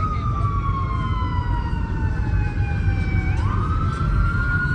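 An emergency vehicle siren wailing: its pitch falls slowly for about three seconds, then sweeps quickly back up and keeps climbing. A steady low rumble runs underneath.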